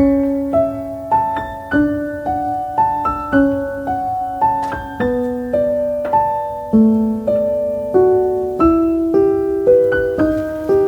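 Background piano music: a slow, gentle melody of single struck notes, about two a second, each fading before the next.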